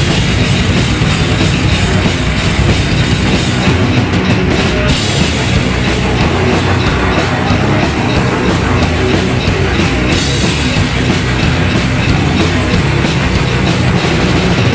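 A live heavy metal band playing loudly with two distorted electric guitars, bass and drum kit, dense and unbroken.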